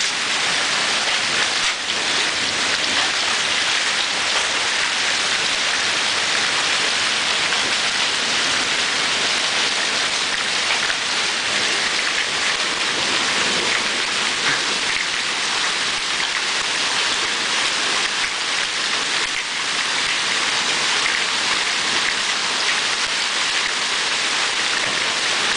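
Heavy rain pouring down in a steady, dense hiss that holds even throughout.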